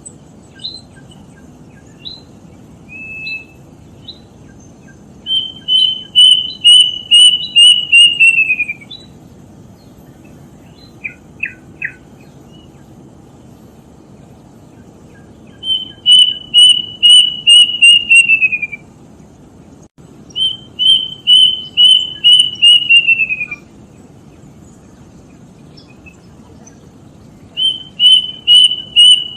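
A kedasih cuckoo calling: four runs of about ten quick, loud whistled notes, each run sliding downward at its end, with a few short single chirps between the runs. A steady low hiss underlies the calls.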